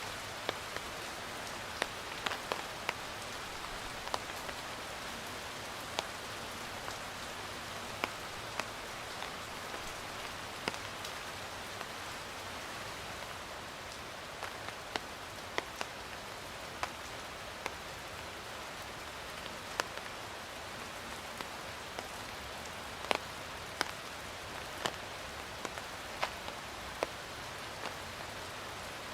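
Steady rain falling, a continuous hiss with scattered individual drops ticking sharply on a nearby surface.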